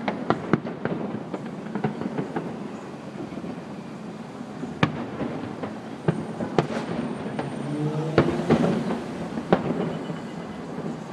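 Fireworks bursting: scattered sharp pops and bangs at irregular intervals over a steady rumbling background. A brief pitched tone sounds about eight seconds in.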